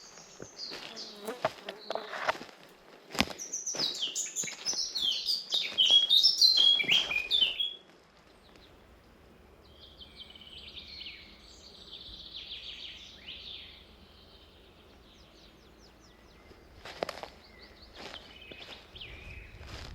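Forest birds singing: quick, bright chirping trills in the first half that stop abruptly about eight seconds in, then fainter bird chatter. Footsteps on a forest path sound as short scuffs at the start and again near the end.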